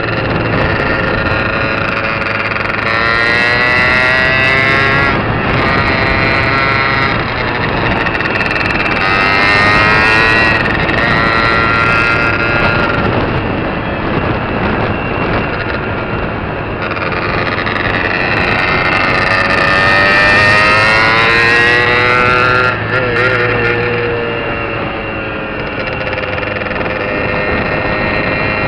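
Honda MT5's 65cc two-stroke engine being ridden, its note climbing as it accelerates and falling back several times.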